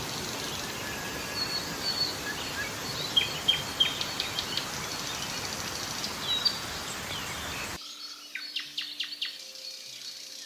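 Rainforest ambience: birds chirping in short, quick downward-sweeping calls over a steady hiss. The hiss cuts off abruptly about eight seconds in, leaving a quieter background with a few more chirps.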